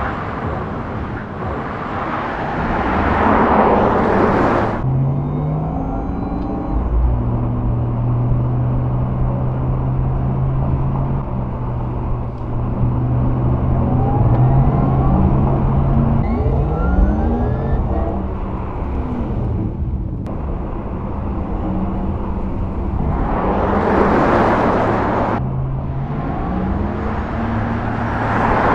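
Porsche Taycan Turbo S electric sports car driving: a low steady hum with a few rising whines, and road and wind noise swelling up twice, a few seconds in and about three quarters of the way through.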